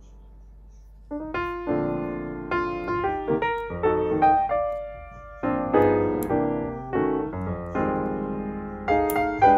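Background piano music: a fading held note, then from about a second in a melody of struck notes, each ringing and fading.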